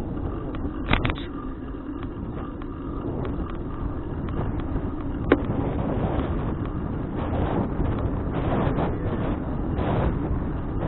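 Wind buffeting an action camera's microphone while riding a bicycle, a steady low rumble, with two short sharp clicks, one about a second in and one about five seconds in.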